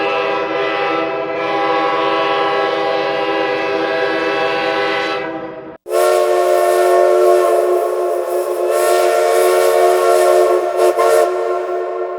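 A multi-tone train horn sounding a steady chord in two long blasts. The first blast breaks off abruptly a little under six seconds in, and the second follows at once and fades out near the end.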